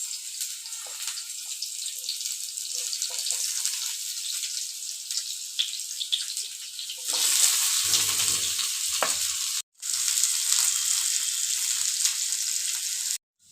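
Sliced onions and green chillies sizzling in hot oil in a pan, a dense hiss that grows louder about seven seconds in, with a few low knocks around eight to nine seconds. The sizzle cuts out briefly twice.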